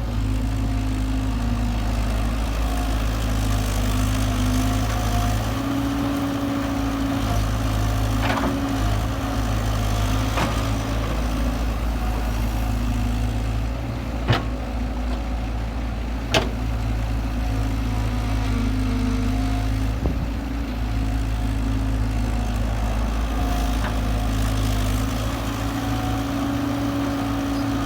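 Kobelco SK120-5 hydraulic excavator's diesel engine running steadily as it digs soil and loads a dump truck, with several sharp metallic clanks near the middle.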